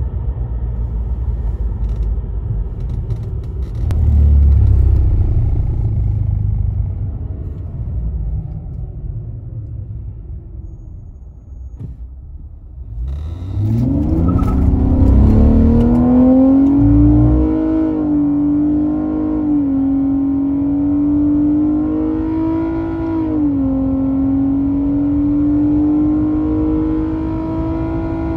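Inside the cabin of a 2017 Nissan Maxima: low road and tyre rumble as the car slows. Then, from about halfway, the 3.5-litre V6 at full throttle, its note rising quickly and then holding high. The note dips briefly three times as the CVT steps through simulated gears.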